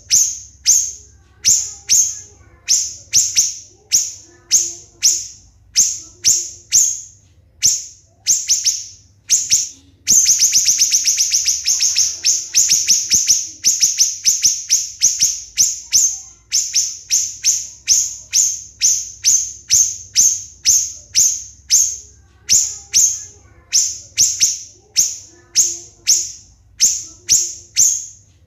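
A siri-siri bird singing: loud, sharp, high-pitched whistled notes fired off about twice a second. About ten seconds in they break into a fast, tight run of rapid notes lasting a few seconds, then return to the steady repeated notes. These are the close-spaced 'shots' prized for training songbirds.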